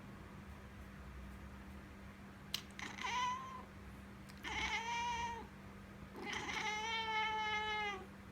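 Domestic cat meowing three times at a fly it is watching, each meow longer than the one before, the last drawn out for nearly two seconds. A sharp click comes just before the first meow.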